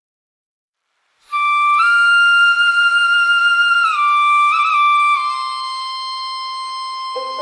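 Silence for about a second, then a solo flute melody: a long held note that steps up, falls back with a quick ornament, and settles onto a slightly lower held note that fades a little.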